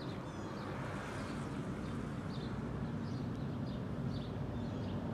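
Steady low rumbling drone of an approaching CSX diesel freight train, still out of sight down the line, with faint bird chirps above it.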